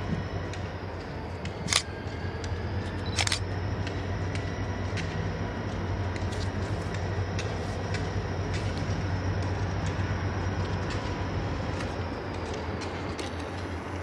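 A train running, with a steady low hum and faint steady high-pitched whines. Two sharp clicks come about a second and a half apart near the start.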